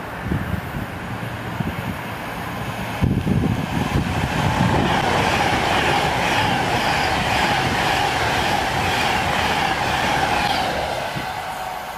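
Virgin Trains Class 390 Pendolino electric multiple unit passing the platform: wheel and rolling noise that grows louder about three seconds in. A steady tone runs under the rolling noise, and the sound eases off near the end as the last coaches go by.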